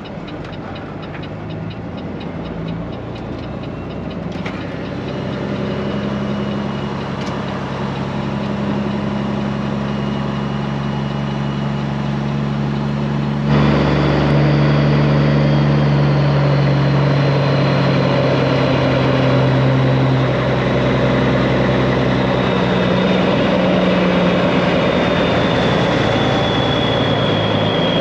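Straight-piped Peterbilt 389 semi's diesel engine running through its open exhaust, its pitch stepping up and down several times as the truck pulls. It grows louder over the first half, jumps suddenly louder about halfway, and a faint high whine slides slowly down in the second half.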